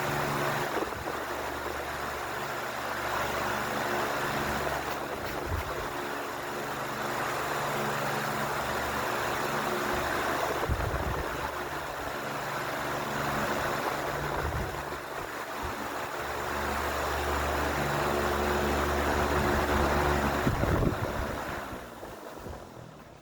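Ventisol New 60 cm wall fan running: a steady rush of air over a low motor hum, with a few low knocks. Near the end the fan is switched off and the sound dies away as the motor slows.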